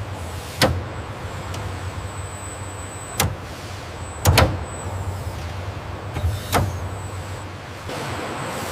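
Factory floor ambience: a steady low hum with several sharp knocks at irregular intervals.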